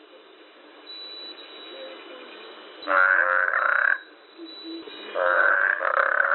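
A toad calling: two pitched croaking calls, each lasting about a second, one about three seconds in and the next starting about five seconds in.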